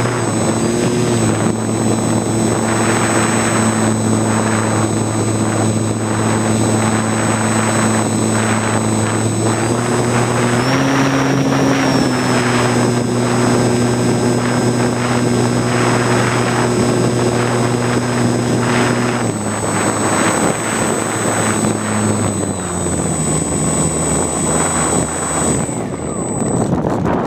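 Battery-powered electric motor and propeller of a radio-controlled model airplane running steadily, with a high electric whine over it and wind rushing over the microphone. The pitch steps up about ten seconds in, then drops in two steps, and the high whine cuts out near the end as the throttle comes back.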